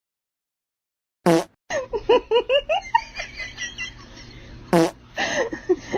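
Two short fart-like blasts, about a second in and near the end, with a run of quick laughter between them.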